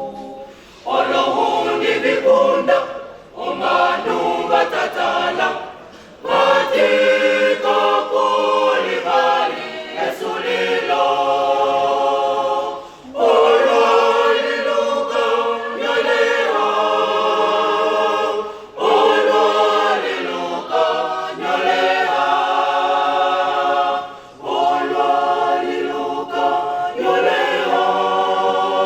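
A choir of many voices singing unaccompanied in harmony, in phrases with short breaths between them.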